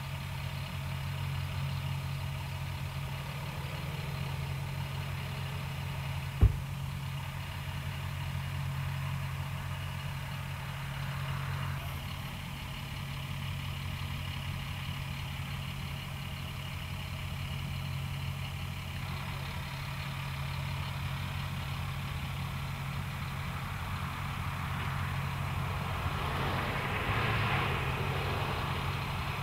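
Idling vehicle engine, a steady low hum, with a single sharp click about six seconds in.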